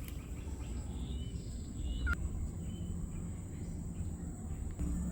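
Birds calling: a few short, high chirps and one quick falling whistle about two seconds in, over a steady low rumble.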